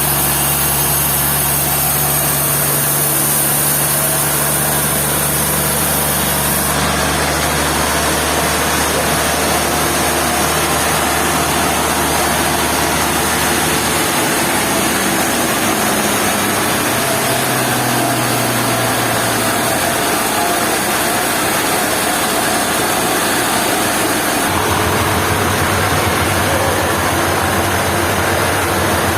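Sawmill machinery running: a steady engine drone over a wash of noise, its pitch and tone changing abruptly three times.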